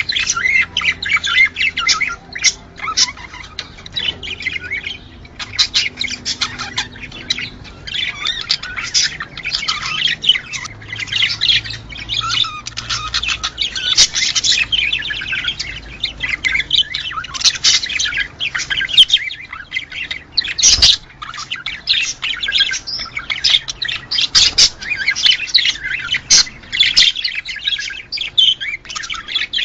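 A flock of budgerigars chattering: a dense, continuous mix of warbling chirps and squawks, with one low knock partway through.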